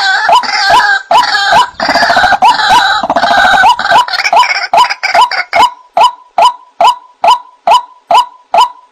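White-breasted waterhen (ruak-ruak) calling in a bird-lure recording: a run of repeated, rhythmic "kruak" notes. The notes are dense and harsh at first, then from about halfway come singly and evenly, about two and a half a second.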